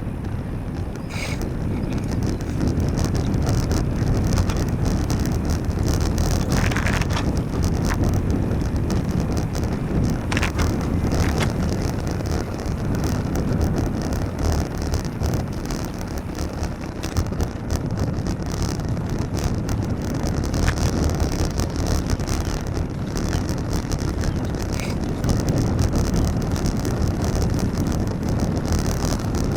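Steady wind buffeting the microphone of a camera on a moving bicycle, mixed with road and traffic noise on a wet road. A few short, higher-pitched sounds stand out over it.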